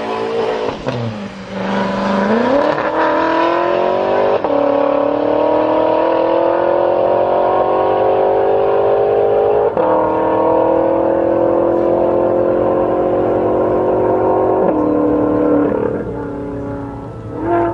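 BMW M5 F10's twin-turbo V8 through a Meisterschaft exhaust, launching and accelerating hard. The note climbs and drops sharply at each upshift, about every five seconds, three times.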